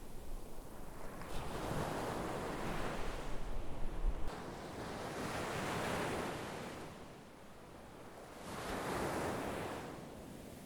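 Sea waves breaking and washing up on the shore, three surges of surf a few seconds apart, each swelling and fading. Wind buffets the microphone with a low rumble until about four seconds in, then stops.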